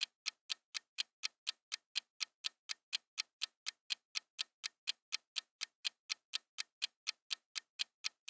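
Clock-style countdown ticking, a steady run of sharp ticks at about four a second, timing the answer pause of a quiz question.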